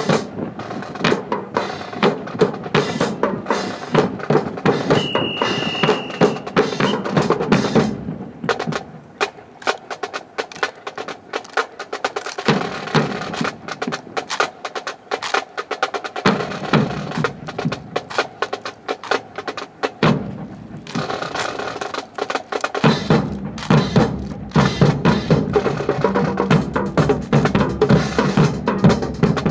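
Marching drums playing rapid snare cadences with bass drum. The bass drum drops out for stretches, about eight to twelve and twenty to twenty-three seconds in, and a brief high held tone sounds about five seconds in.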